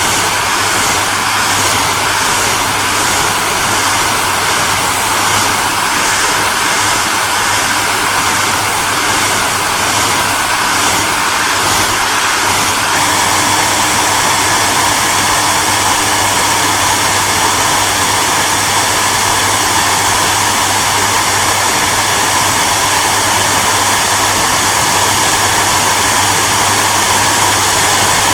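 Electric hair dryer running continuously: a steady rush of blown air with a low motor hum underneath. A faint regular flutter in the hiss fades out about halfway through, leaving an even noise.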